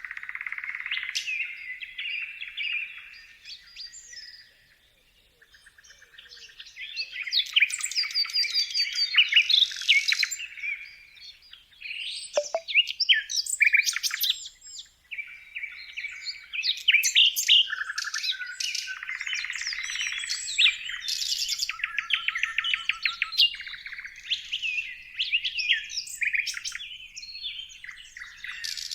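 Several birds chirping and singing together in a dense chorus of rapid chirps, trills and whistles, with a short lull about five seconds in.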